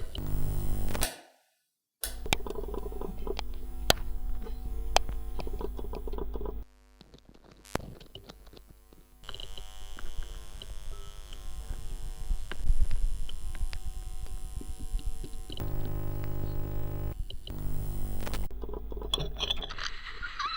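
Steady electrical buzzing hum with scattered crackling clicks, played through a small speaker built into a lamp to suggest a light that is switched on. It cuts out about a second in and drops low for a couple of seconds around the middle.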